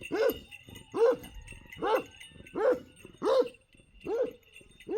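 A dog barking in a steady series, seven short barks about one every 0.8 seconds.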